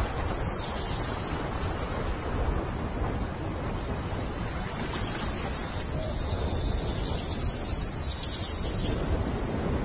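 Short, high bird chirps in several bouts over a steady background hiss.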